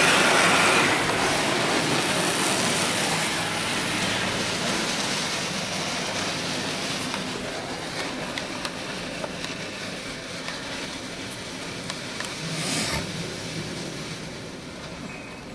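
Belanger Kondor KL2 touchless car wash spraying pre-soak over the car, heard from inside the cabin as a steady hiss of spray on the body and glass. It slowly fades as the spray moves along the car, with a brief swell near the end.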